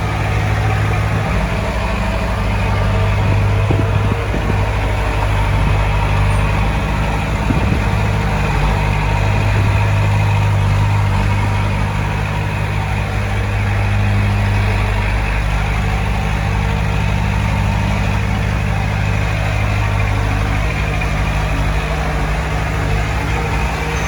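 Heavy machinery's diesel engine running steadily at an even, low pitch, with a few light knocks in the first several seconds.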